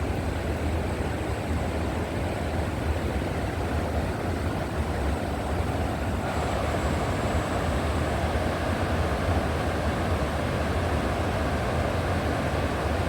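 River water flowing: a steady rushing noise with a strong low rumble underneath.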